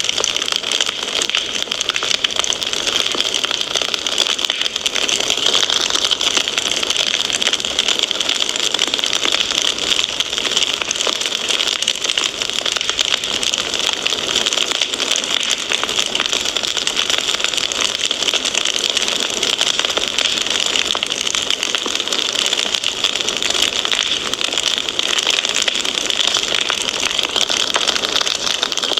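Wood fire crackling steadily, a dense run of small pops over a constant hiss.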